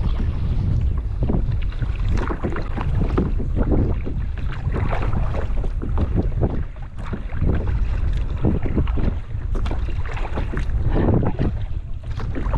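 Wind rumbling on the microphone, with irregular splashing and lapping of water around a paddled kayak.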